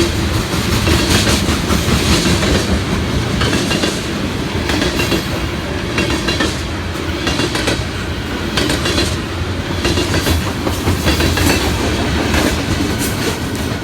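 Norfolk Southern freight train rolling past, a steady rumble with the steel wheels clacking over the rail joints in irregular runs.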